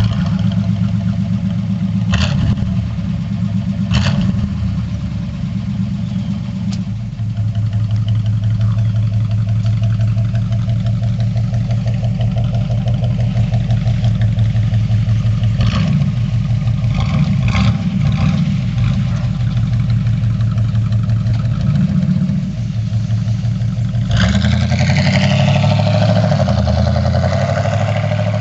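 1953 Oldsmobile 98's Rocket V8 running right after starting, idling with a steady low rumble through its exhaust and a few sharp knocks. About 24 seconds in the engine note rises and brightens as the car pulls away and accelerates.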